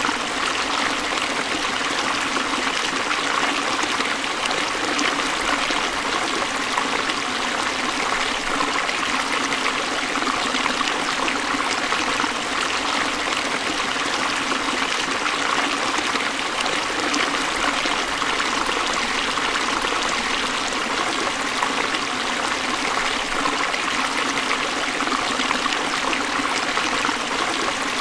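Forest stream flowing over rocks: a steady rushing and trickling of water.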